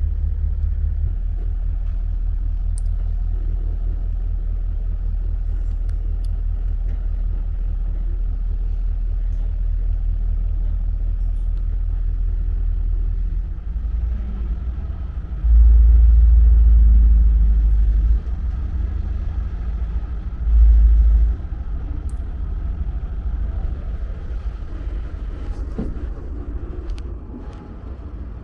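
Low, steady rumble of a commuter train, with two much louder low rumbles about halfway through: one lasting about two and a half seconds, then a shorter one a couple of seconds later.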